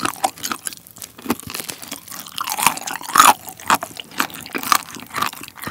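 Close-miked crunching and chewing of Kyochon Honey Combo fried chicken: the crisp coating cracks in many irregular crunches, the loudest a little past halfway.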